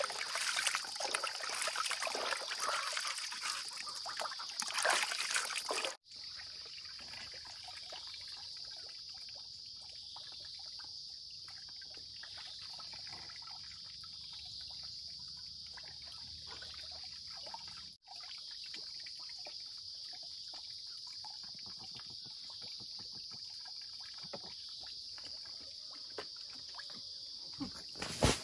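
Water running in a trickle for about the first six seconds, over a steady high-pitched insect drone. After an abrupt cut the drone carries on alone, and there is a single sharp knock near the end.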